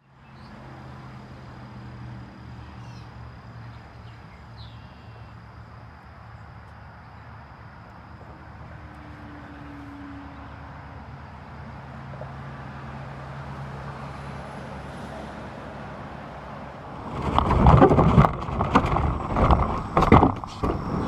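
Steady low vehicle engine hum with a couple of faint chirps early on. About seventeen seconds in, loud irregular bursts of noise take over.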